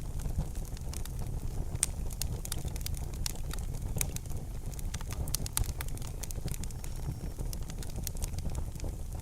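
Wood fire burning in a fireplace: a steady low rumble of flame with frequent, irregular sharp crackles and pops.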